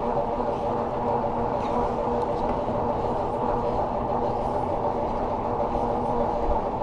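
Juiced City Scrambler e-bike's rear hub motor running under way, a steady whine of several held tones over a rushing wind and road noise.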